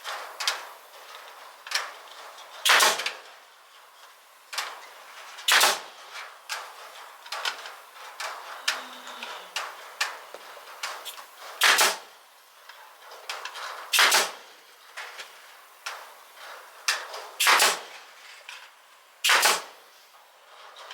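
Staple gun firing staples into the wooden frame: sharp snaps at irregular intervals, about six loud ones a couple of seconds apart, with lighter clicks and handling noise between them.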